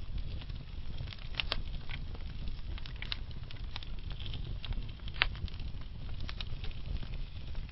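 Wood fire burning slowly in a fireplace: a low steady rumble of flames with scattered sharp crackles and pops, the loudest pop about five seconds in.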